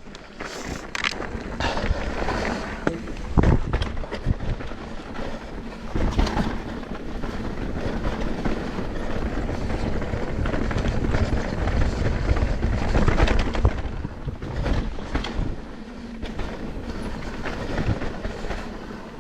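Mountain bike descending a bike-park trail: tyres rolling over the dirt and the bike rattling and knocking over bumps, with wind rumbling on the microphone. Sharp knocks stand out a few times, the loudest about three and a half seconds in and again around six and thirteen seconds.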